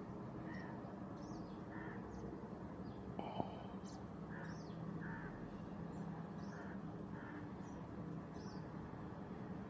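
Faint outdoor birdsong: many short, high chirps and repeated mid-pitched call notes from several birds over a steady low hum, with one brief click about three and a half seconds in.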